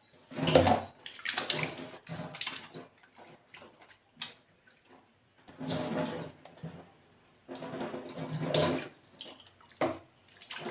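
Water poured from a jug splashing over hands into a pot, in several pours of a second or two each. Two short, sharp knocks come between the pours.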